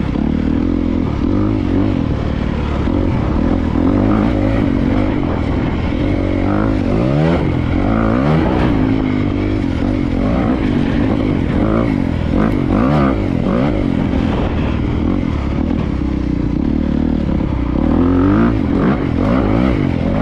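Honda CRF250R dirt bike's four-stroke single-cylinder engine being ridden hard, its pitch rising and falling over and over as the throttle is opened and closed and the gears are run through.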